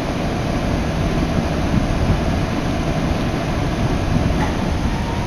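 Steady low rumble of a passenger train heard from inside the car as it runs along the line.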